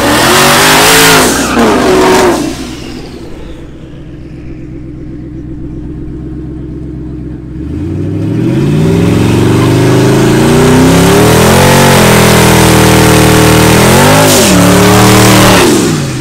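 Twin-turbo 5.0 V8 of an 850 hp Mustang drag car revving hard, then settling low for a few seconds. Its revs then climb and are held high for about eight seconds with a loud hiss of spinning tyres in a smoky burnout, with a couple of quick dips in revs near the end.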